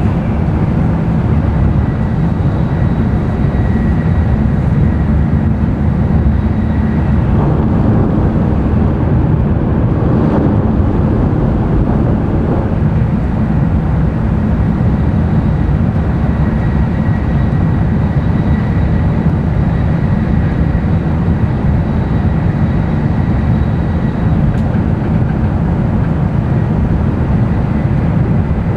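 Running noise of an N700-series Tokaido Shinkansen train heard inside the passenger car: a steady low rumble and rush, with a faint steady high whine above it.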